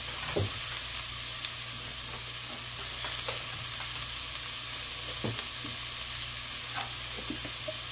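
A sauté of onion, sweet pepper, flaked smoked herring and shredded carrot sizzling steadily in oil in a pan, with a few light scrapes of a spoon stirring it.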